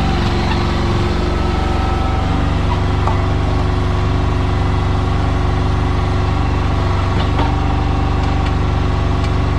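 Yanmar compact excavator's diesel engine running steadily while it digs a trench.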